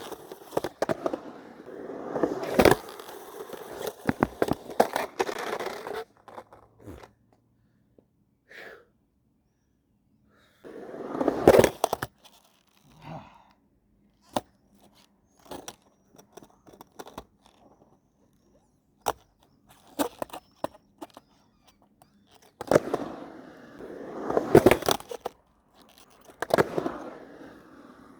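Skateboard rolling and scraping over concrete in three loud rough stretches, near the start, about a third of the way in and near the end. Between them come sharp clacks and snaps of the deck and trucks hitting the ground.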